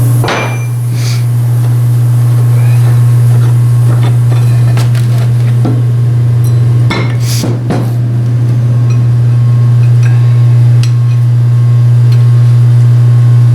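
A loud, steady low hum runs underneath, with scattered metallic clinks and taps of tools against metal vise parts.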